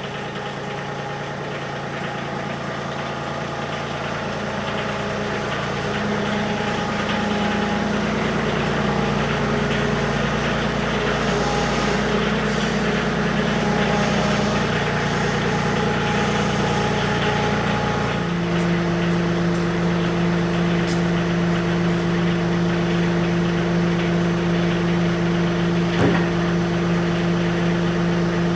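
John Deere tractor engine running at a steady throttle, its pitch shifting a couple of times and then stepping to a new steady speed about two-thirds of the way through. There is a single sharp click near the end.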